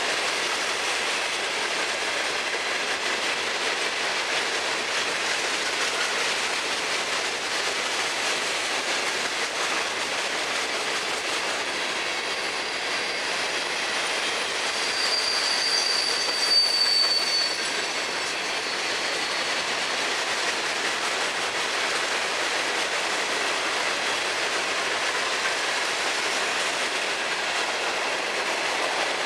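Freight train of open hopper cars rolling past at steady speed, with a continuous noise of steel wheels on the rails. About halfway through, a brief high wheel squeal rises above it for a couple of seconds.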